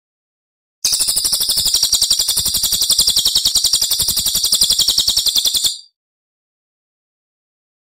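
A songbird's rapid, high-pitched trill of quickly repeated notes, beginning about a second in and breaking off after about five seconds; a burst-style 'tembakan' song used in a master recording to train contest birds.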